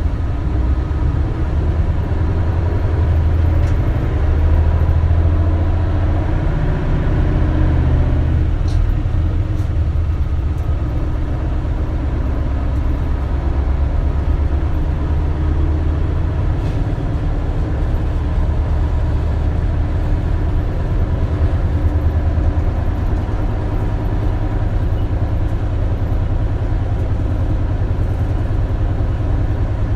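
Isuzu Erga (KL-LV280L1) route bus's diesel engine running with a steady low drone, heard from inside the passenger cabin along with road noise; the drone swells a little a few seconds in and then settles.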